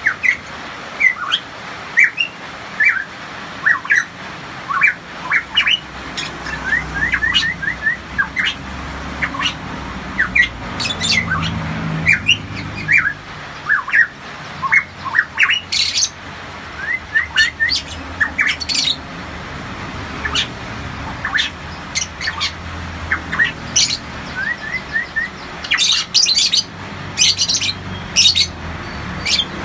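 Pitohui singing vigorously: a steady run of short, quick whistled notes and slurred glides, broken by clusters of harsh, rasping squawks about halfway through and again near the end.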